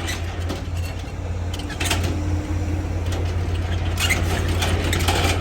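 Semi-trailer landing gear being hand-cranked, with metal clicks and scrapes, over a steady truck engine idle. The gear is stiff and, as the driver puts it, in need of a little maintenance.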